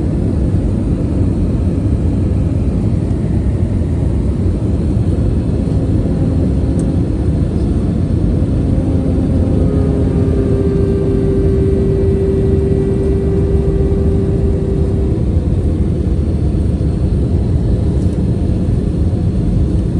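Airliner in flight: a steady, loud rumble of engines and rushing air. About halfway through, a steady hum comes in for several seconds and then fades.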